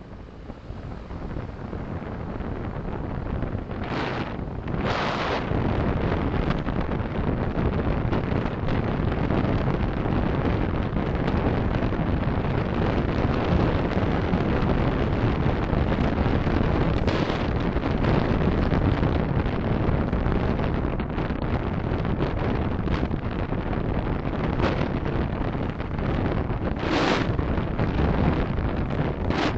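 Road and wind noise inside a car on the move, picked up by a dashcam. It grows louder over the first several seconds as the car gathers speed, then holds steady, with a few short, sharper hisses.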